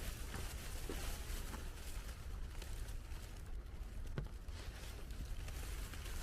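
Footsteps in snow, a few soft crunching steps over a steady low rumble.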